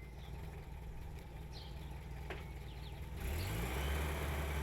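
Motor vehicle engine: a faint low hum, then about three seconds in it grows louder, with the engine note rising as the vehicle pulls away and accelerates.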